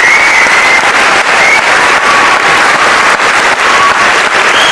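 Theatre audience applauding steadily, with a few high whoops over the clapping.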